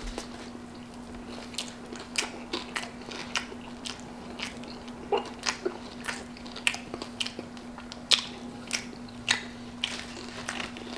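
A person chewing a mouthful of nacho cheeseburger with crunchy corn chips in it, close to the microphone: sharp, irregular crunches about two a second.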